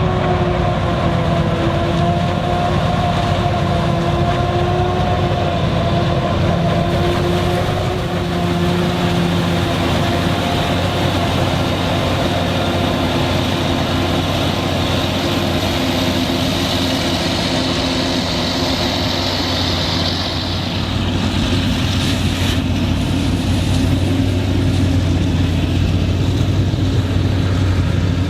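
Claas Jaguar 980 forage harvester working in standing maize: its V12 engine and chopping drum run steadily under load. A pitched hum fades about a third of the way through, and a high whine rises and then drops away about two thirds of the way in.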